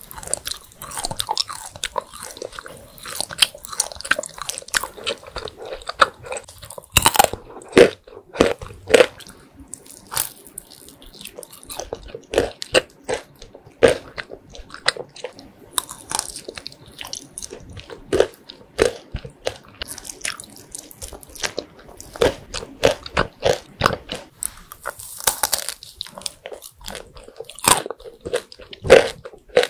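Close-miked biting and chewing of Turkish roll lokum filled with nuts: an irregular run of sharp crunches and wet mouth clicks as the nutty pieces are bitten and chewed.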